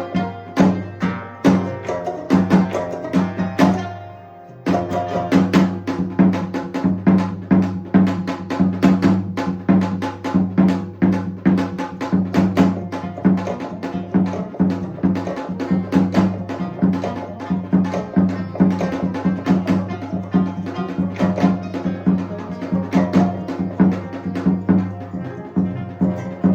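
Percussion ensemble music: fast, dense drum and block strokes over a sustained low tone, dropping away briefly about four seconds in, then resuming.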